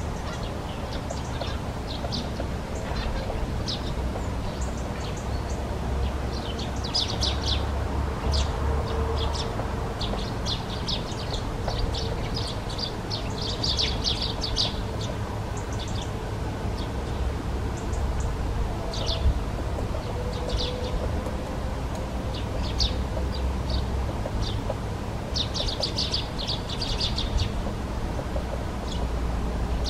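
Short, sharp high-pitched bird calls, scattered singly and in quick runs, over a steady low rumble.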